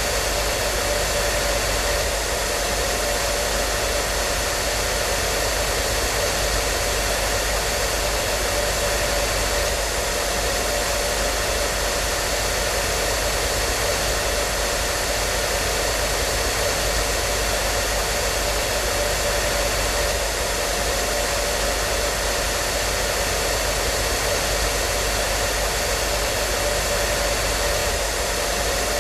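Hair dryer running steadily: an even blowing hiss with a faint steady hum of its motor and fan, unchanging throughout.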